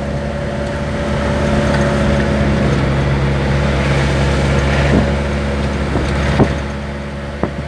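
Truck engine running steadily while driving, with road noise under it. A couple of sharp knocks come in the last two seconds.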